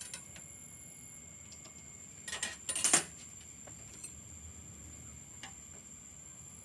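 Small hard parts clicking and clattering as they are handled, in a short burst about two to three seconds in, with a few faint single ticks around it and a faint steady high-pitched whine underneath.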